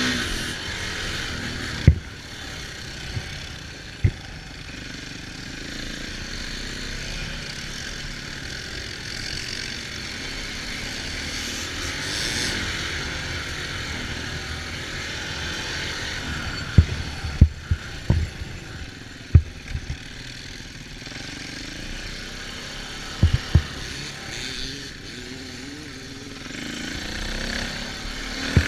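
Off-road vehicle engine running during a ride, over a steady rushing noise, with scattered sharp knocks that bunch together about two thirds of the way through.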